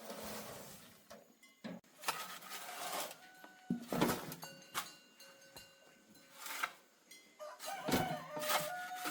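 Chickens clucking and a rooster crowing, among several short noisy scrapes or knocks.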